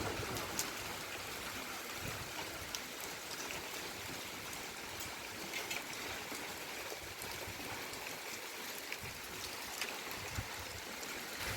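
Steady rain falling: a constant hiss with scattered sharp ticks of single drops.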